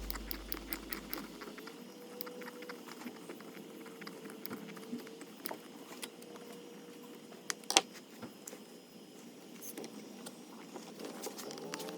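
Faint, scattered clicks and taps of small parts being handled while the springs on an RC car's shocks are swapped, with one sharper click about three-quarters of the way through. Background music fades out in the first second or so.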